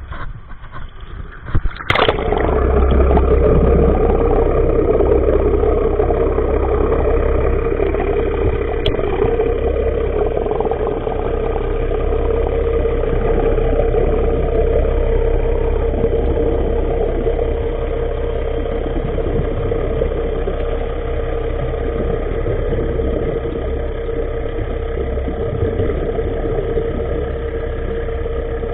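An engine starts abruptly about two seconds in, then runs steadily with a constant hum and a low rumble.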